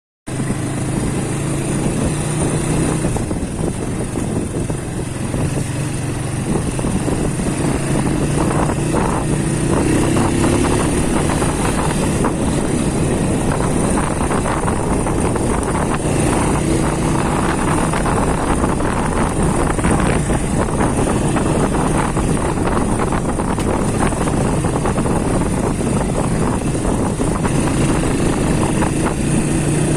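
Small-displacement single-cylinder motorcycle engine running under way, its note rising and falling as the throttle is worked, over a heavy rumble.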